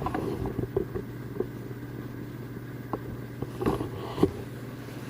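A steady low hum with a scattering of knocks, bumps and short rustles, the loudest a knock near the end.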